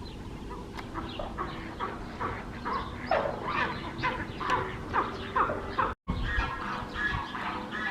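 Ducks on a pond calling, a dense chatter of short calls overlapping one another and growing busier toward the middle. The sound drops out briefly about six seconds in, then the calls resume.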